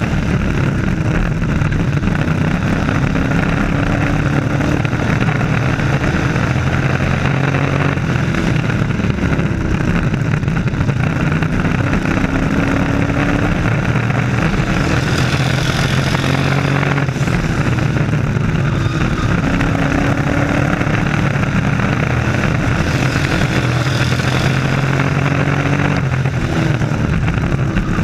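Racing trucks' engines running at race speed on a short oval track, the pitch rising and falling over and over as the trucks come round.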